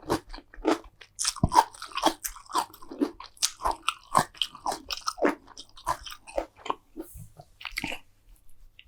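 Close-miked chewing of crunchy food: a quick, irregular run of crisp crunches and bites that stops about eight seconds in.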